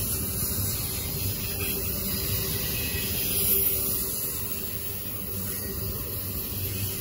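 CSX double-stack intermodal train's container well cars rolling past on the rails: a steady rumble and hiss of steel wheels on track, with a faint steady hum running under it.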